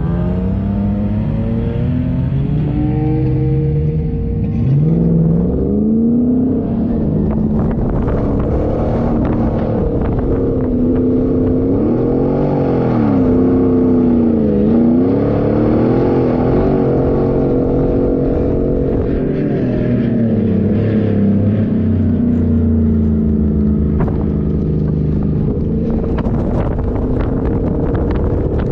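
A 4x4's engine driving off-road, its pitch rising and falling again and again as it revs up and eases off under changing load.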